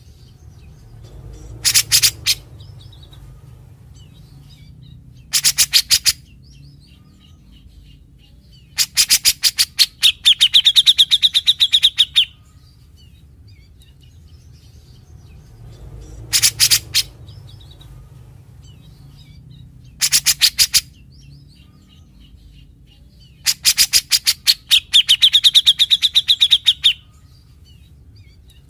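Grey-cheeked bulbul (cucak jenggot) giving harsh, rapid rattling calls in short bursts; these are its typical 'besetan' calls. The two longer bursts carry a ringing whistle through the rattle. The sequence of bursts comes round twice, as a looped recording does.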